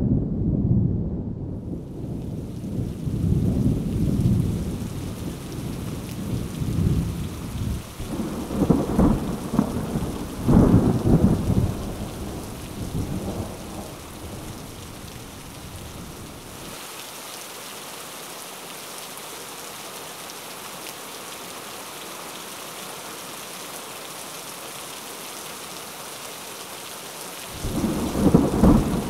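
Thunderstorm: rolling thunder over steady rain, with two heavy peals about nine and eleven seconds in. About halfway through the thunder dies away, leaving only the hiss of rain, and it rumbles in again near the end.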